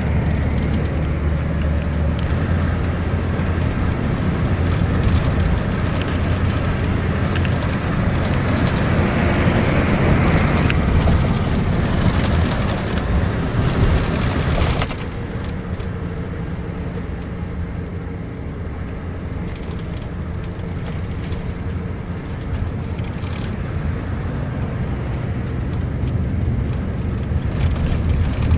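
Steady engine and road noise of a Scania K410IB double-decker bus on the move. About halfway through the hiss drops away and the sound becomes a quieter, even hum.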